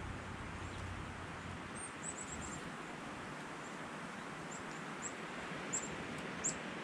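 Small bird calling with short, high, sharp chip notes: a quick run of four about two seconds in, then single notes spaced out, the last two the loudest, over a steady outdoor hiss.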